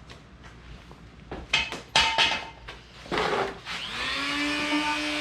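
A few loud clattering knocks of things being handled, then a Dremel rotary tool spins up about four seconds in and runs with a steady high whine.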